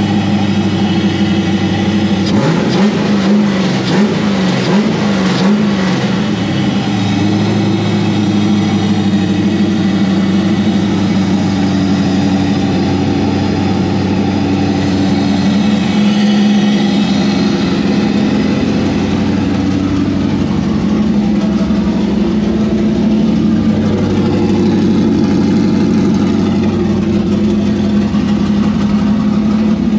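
Cammed, untuned 6.2-litre LS V8 running at a raised warm-up idle of about 1400 rpm, set on the throttle-body idle screw. A couple of seconds in, its pitch rises and falls several times, then it settles into a steady run.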